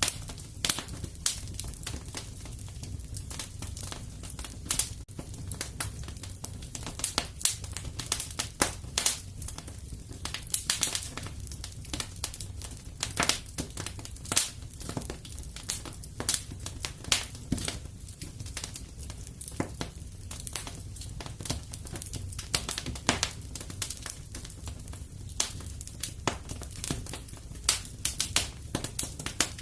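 Wood fire crackling: irregular sharp pops and snaps, several a second, over a low steady rumble of the burning fire.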